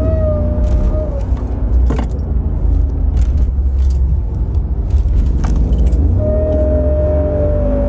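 Mercedes G63's M157 twin-turbo V8 running, with a steady whistling tone at the start and again from about six seconds in, when the engine is revved. This is the abnormal sound on acceleration, put down to a faulty turbo pipe clip. A few sharp clicks in between.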